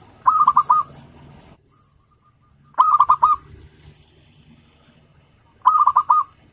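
Zebra dove (perkutut) cooing: three short phrases of about four quick notes each, two to three seconds apart.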